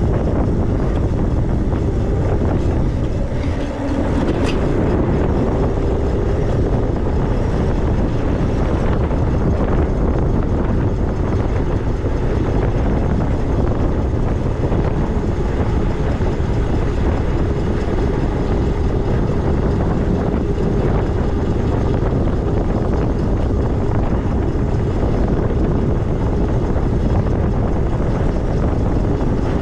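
Wind rushing on the microphone and tyre noise from a moving e-bike, with a faint steady tone under it. A brief dip comes about four seconds in.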